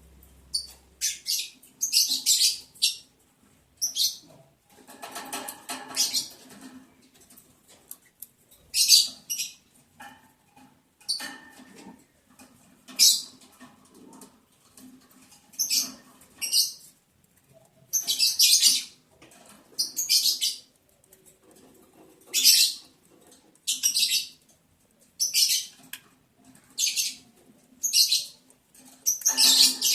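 Lovebirds making a run of short, scratchy, high-pitched bursts of sound, one every second or two, with short quiet gaps between them.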